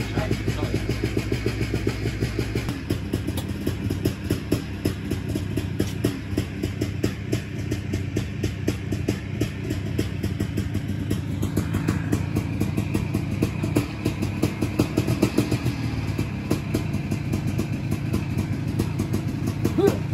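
Motorcycle engine idling steadily, an even rapid run of firing pulses. A faint higher whine joins it from about halfway through.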